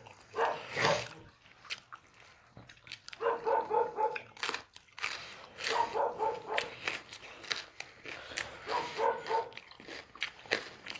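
A dog eating rice and eggs: wet chewing and smacking clicks, broken every few seconds by a short run of quick pitched grunting sounds.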